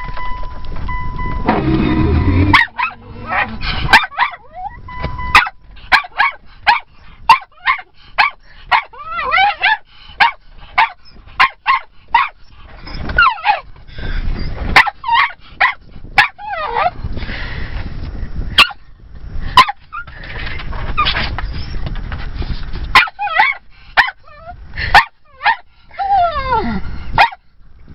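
A dog barking frantically and over and over, with sharp barks coming several a second at times and high whines sliding in pitch between them.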